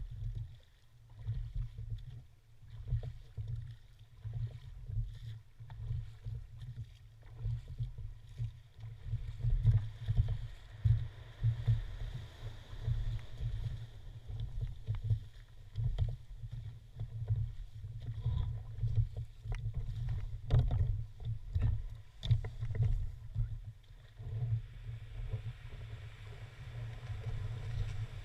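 Gusty low rumble of wind buffeting the microphone on a small boat, with a few faint knocks.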